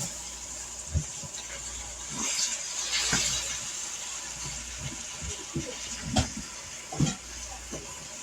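Chicken thighs sizzling in a hot skillet with cream of chicken soup: a steady hiss that swells louder for a second or so about two to three seconds in. A few short knocks against the pan come about a second in and twice near the end.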